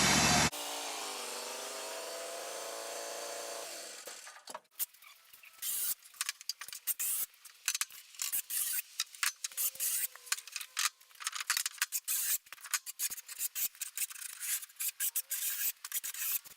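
Wood-Mizer LT15 sawmill running, then shut off about half a second in, leaving a hum that falls in pitch as the mill winds down over about three seconds. After that, irregular scraping and clicking, rubbing sounds of handling, fill the rest.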